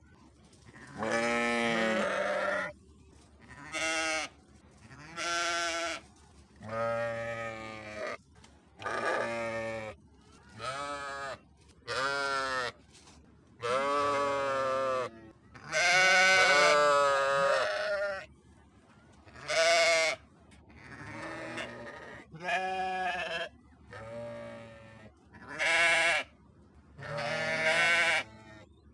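Sheep bleating over and over, about fifteen calls of varying length, each with a wavering, quavering pitch and short pauses between them.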